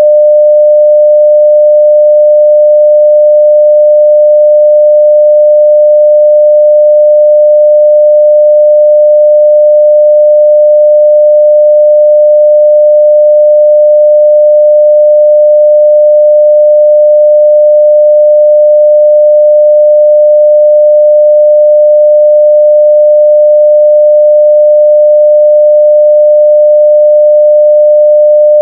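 A steady 600 Hz sine-wave test tone at full level, a single pure pitch held without change.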